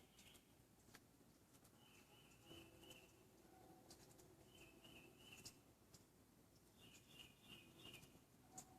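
Faint birdsong at night: short, high twittering phrases, each about a second long, repeated every two to three seconds.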